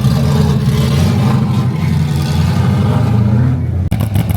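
A car engine idling steadily at low revs. The sound breaks off abruptly near the end and a similar engine sound starts again.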